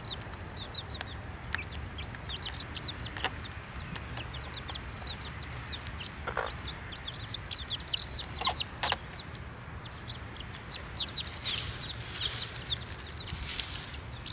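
A group of baby chicks peeping continuously: many short, high, downward-sliding peeps overlapping one another, with a few louder, lower calls and scattered clicks.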